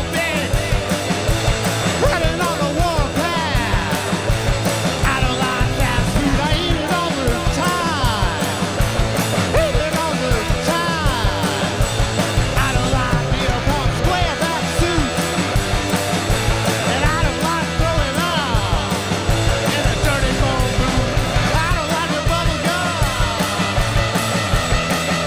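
Rock band playing live: electric guitars, bass and drums driving a steady beat, with bending guitar lines over the top.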